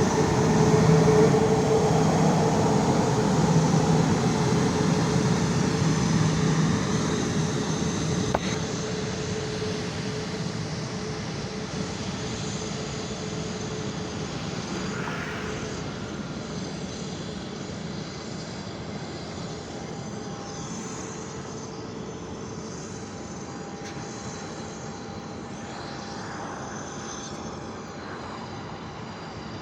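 Jet airliner engines running, loud at first and fading over about ten seconds as the aircraft moves away, with a steady high whine lingering.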